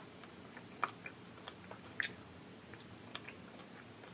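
A child chewing a mouthful of sushi with her mouth closed: quiet, with a handful of soft wet mouth clicks and smacks spread through it.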